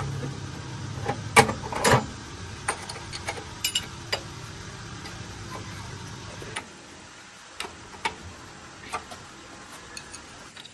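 Scattered sharp clicks and light taps, a few louder ones in the first two seconds, over a low steady hum that dies away about six and a half seconds in.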